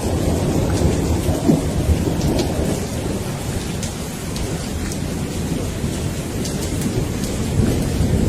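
Rain falling with a continuous low thunder rumble that eases a little midway and builds again near the end.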